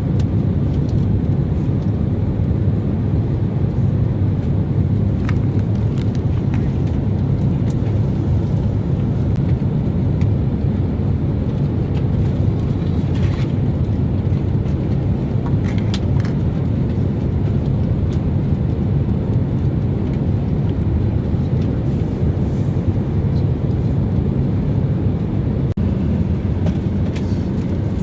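Steady airliner cabin noise in flight: an even low rush of engine and airflow, with a few faint clicks over it.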